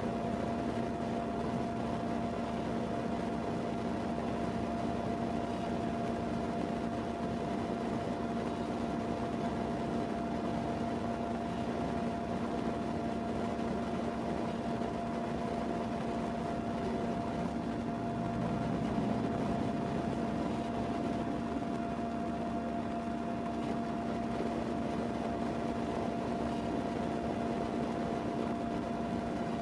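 A steady mechanical hum over a constant hiss, with two unchanging tones and a slight swell near two-thirds of the way through.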